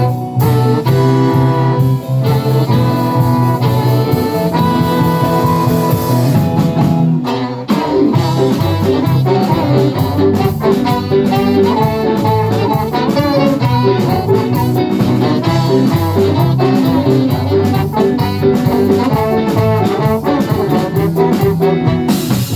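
Live band playing a song, with horn parts over bass and drums.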